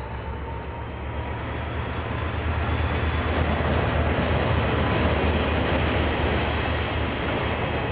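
KiwiRail train passing on the line: the low rumble of diesel locomotives with a growing wash of wheel-on-rail noise, getting louder over the first three seconds and then holding.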